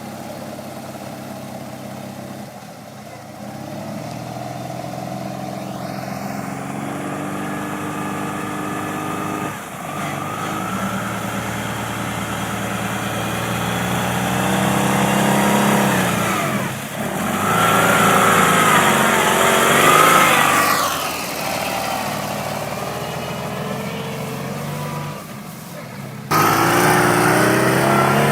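Modified Ural motorcycle engine running under way, its pitch climbing and falling as it is revved and eased off several times. The sound becomes suddenly louder near the end.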